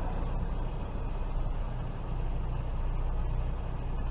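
Semi-truck diesel engine running at idle, a steady low rumble, as the tractor-trailer backs slowly in a straight line.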